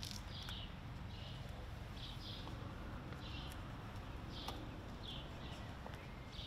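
A small bird chirping over and over, short high notes about once a second, over a steady low outdoor rumble. A few sharp taps are heard, and footsteps on paving near the end.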